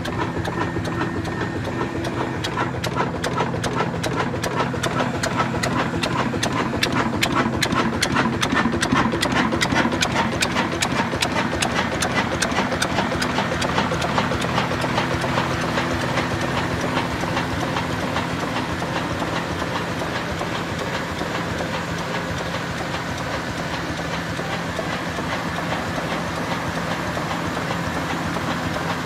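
An old Ruston Hornsby diesel engine running with a fast, even mechanical clatter over a steady low hum. The clatter eases and the sound turns steadier a little past halfway.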